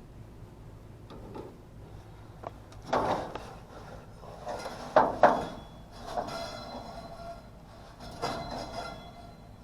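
Metal clanking and rattling from hands working on an HVAC unit, with a few sharp knocks about three and five seconds in and again near the end, the pair around five seconds the loudest. A low steady hum lies underneath.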